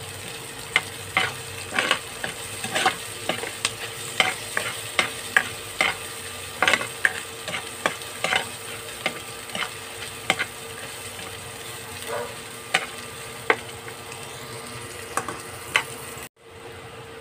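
Chopped onion and garlic sizzling in hot oil in a stainless steel pot, with a metal spatula scraping and knocking against the pot as it stirs them, roughly one to three strokes a second. The sound drops out for a moment near the end.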